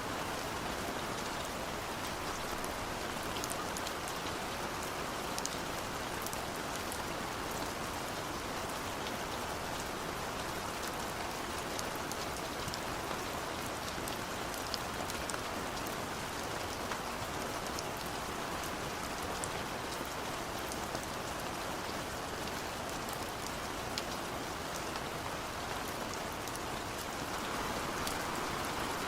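Steady rain falling, a dense even hiss with individual drops ticking through it, swelling slightly near the end.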